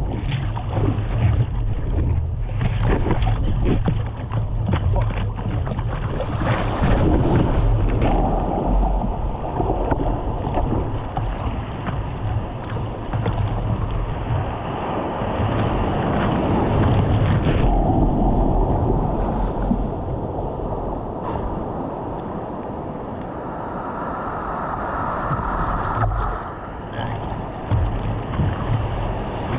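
Wind buffeting the microphone over rushing water, a steady loud rumbling noise.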